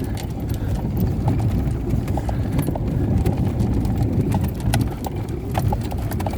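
Vehicle driving over a rough, unpaved track: a steady low rumble from inside, with irregular knocks and rattles as it jolts over bumps.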